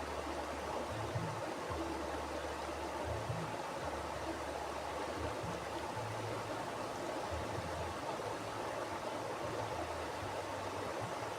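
A mountain river flowing steadily over rocks, a continuous rushing and gurgling of water with a low rumble underneath.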